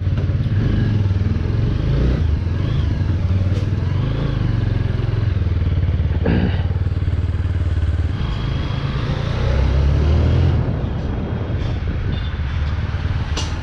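Motorcycle engine running steadily, with a deep rumble that swells and eases a little, and a few short clatters over it.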